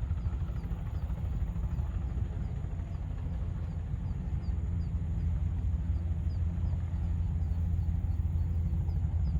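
Helicopter running steadily: a constant low drone of rotor and engine.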